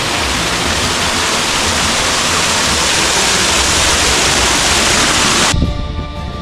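Loud, steady rush of falling water, cutting off suddenly about five and a half seconds in.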